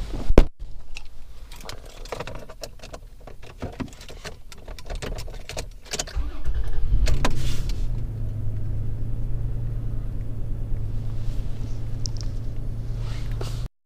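Clicks and keys jangling, then a car engine starts about six seconds in and idles with a steady low hum.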